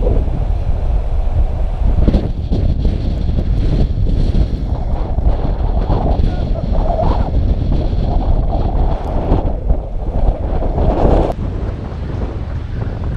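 Strong tropical-storm wind buffeting the microphone in a loud low rumble that swells in gusts, with wind and surf beneath it.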